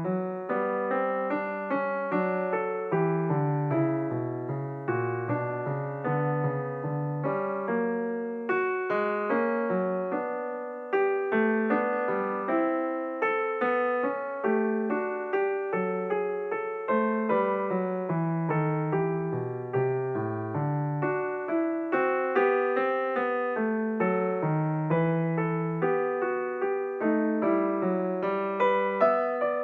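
Background music: solo piano playing a steady flow of notes.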